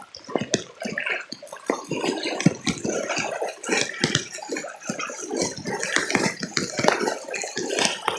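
Floodwater splashing and sloshing in an irregular, choppy run of splashes, as someone wades through it.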